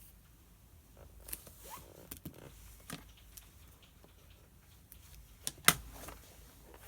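Small desk sounds of pen and paper being handled: a scatter of light clicks and short rustles, then one sharp click or tap, the loudest sound, about five and a half seconds in.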